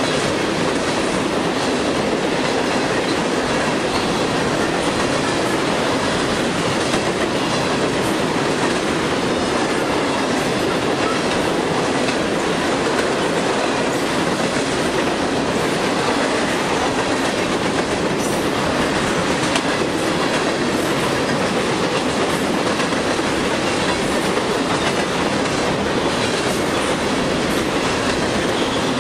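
Freight train of tank cars rolling steadily past at close range: continuous rumble and clatter of steel wheels on the rails, with faint clicking.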